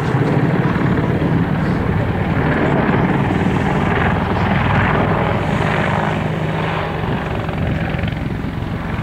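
Boeing AH-64 Apache attack helicopter in flight, its four-blade main rotor chopping rapidly over a steady engine drone, loud and fairly even.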